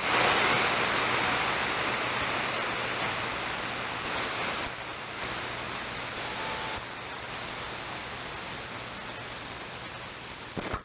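CB radio receiver static: a steady rush of hiss that comes on suddenly, slowly fades and cuts off near the end, with a faint low hum underneath.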